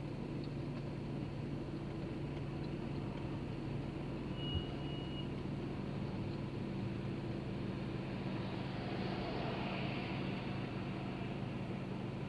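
Steady car noise heard from inside the cabin: a low engine and road hum. About four and a half seconds in come a short high beep and a small knock.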